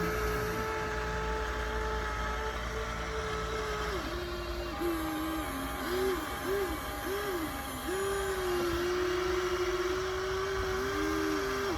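Small electric motors of a radio-controlled construction model whining, the pitch holding steady, then dipping and rising several times in the middle as the motors change speed, then settling again.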